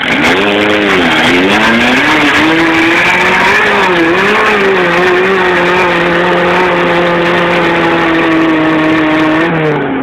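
Suzuki Samurai buggy's engine revving hard under load on a steep hill climb. The revs dip about a second in, climb back and waver, hold high and steady, then drop just before the end.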